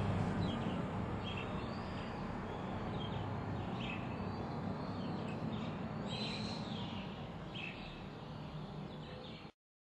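Small birds chirping in short repeated calls over a steady low outdoor rumble; the sound cuts off abruptly near the end.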